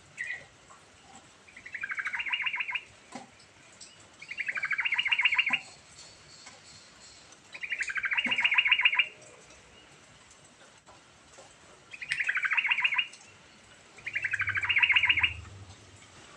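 Yellow-vented bulbul (trucukan) singing: five short phrases of rapid, bubbling repeated notes, each lasting about a second, with pauses of a second or two between them.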